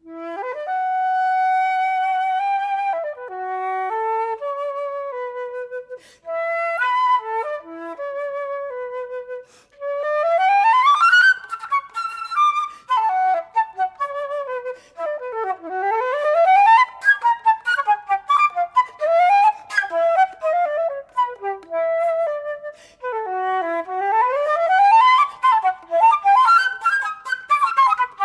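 Solo flute playing unaccompanied: it enters with slow, held notes separated by short breaths, then about ten seconds in breaks into fast runs sweeping up and down.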